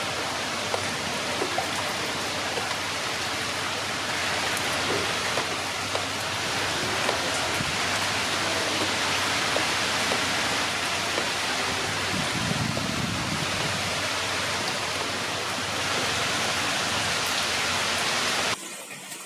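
Fast-flowing floodwater rushing in a steady, even hiss, the sign of a strong current. It cuts off suddenly near the end.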